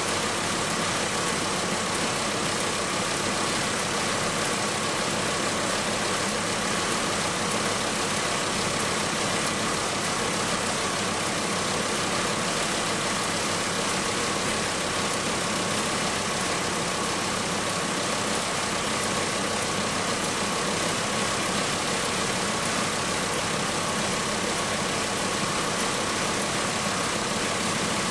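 VW Passat V5's VR5 five-cylinder engine running steadily, with a steady high tone throughout; this is the abnormal noise the owner is recording, still present after a dealer inspection and repair.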